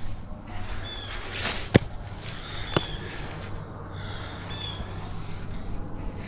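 A bird repeating a short, high chirp that dips slightly in pitch, three times about two seconds apart. A sharp click a couple of seconds in is the loudest sound, with a brief rustle just before it.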